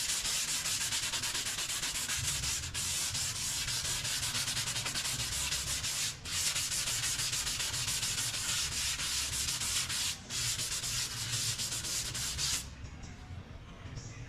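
Sanding of Bondo body filler on a car's damaged quarter panel: a steady scratchy hiss of abrasive on hardened filler, made of rapid strokes. It breaks off briefly about three, six and ten seconds in and stops near the end.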